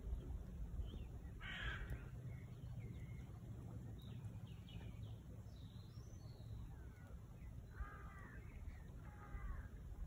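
Birds calling: a harsh call about a second and a half in and two more near the end, with faint higher chirps between, over a low steady background rumble.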